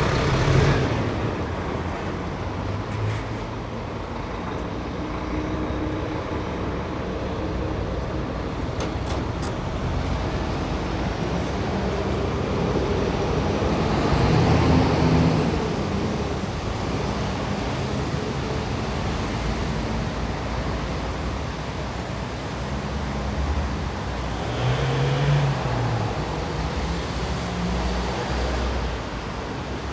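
Road traffic noise: a continuous rumble of passing vehicles, with one louder vehicle going by about halfway through and another near the end.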